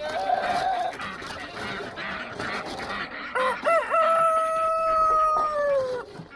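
Rooster crowing once: a long crow that starts a little past three seconds in, holds its last note for about two seconds, and drops at the end. Other chickens cluck around it.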